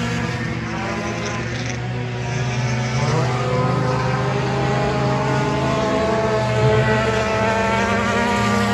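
Race car engines running on a dirt oval, their pitch rising and falling as the cars accelerate; a clear rise in pitch comes about three seconds in.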